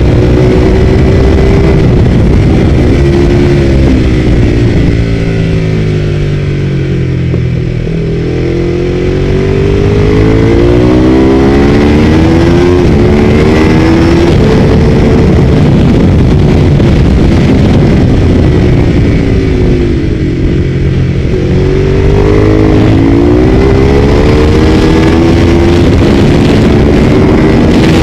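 Ducati 848's V-twin engine at racing speed. The revs drop twice, over a few seconds from about four seconds in and again around twenty seconds, and each time climb again hard through the gears.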